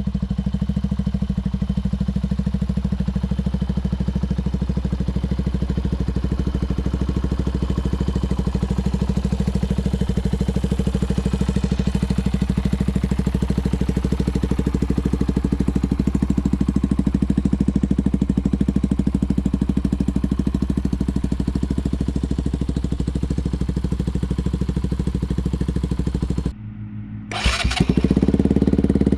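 Benelli TNT 125's single-cylinder 125cc engine running through a de-catted downpipe exhaust, idling steadily. Near the end the sound briefly drops and breaks up, then sweeps up and settles into a louder, faster idle.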